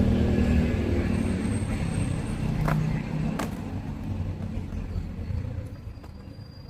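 A motor vehicle's engine running and fading away steadily, with two sharp clicks near the middle.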